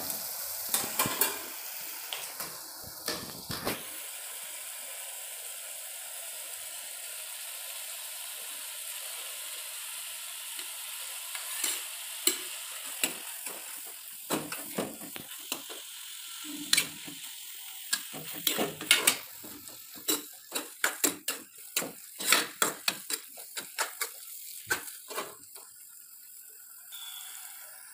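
Tomato and grated radish frying in a kadai, the oil hissing steadily while a steel spoon stirs, scraping and knocking against the pan. The spoon strokes are sparse at first and come thick and fast in the second half.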